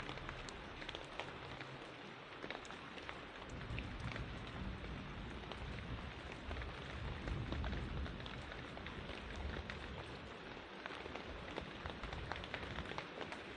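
Steady rain falling, with many small drops striking surfaces close by. A low rumble swells in the middle and fades again.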